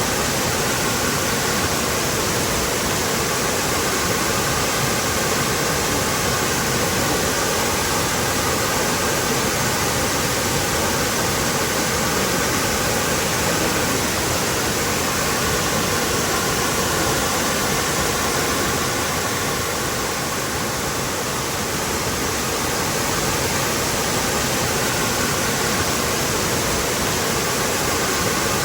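Waterfall with a steady, even rush of falling water, easing slightly for a couple of seconds about twenty seconds in.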